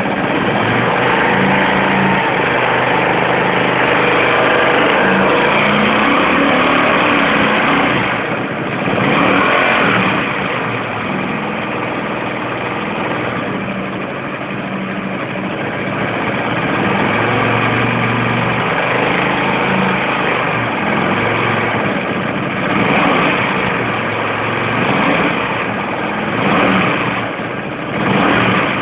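Hyosung Comet 250 motorcycle V-twin engine running, mostly at idle with several brief rises in revs. The owner is recording it for a strange engine noise.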